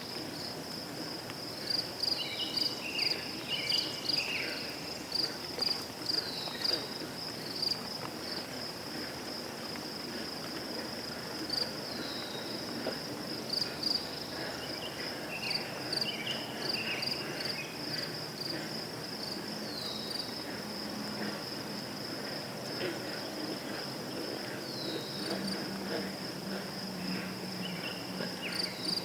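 Crickets chirping in a steady, pulsing high trill, with a few short downward-sliding chirps and brief scratchy calls over it now and then.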